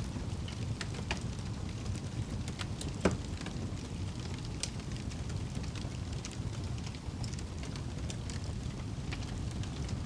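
Wood fire burning in a fireplace: a steady low rumble of flames with scattered crackles and pops, the loudest pop about three seconds in.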